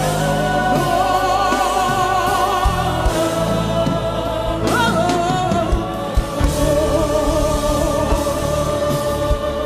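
Gospel choir singing long held notes with vibrato over instrumental backing, the chord shifting a few times.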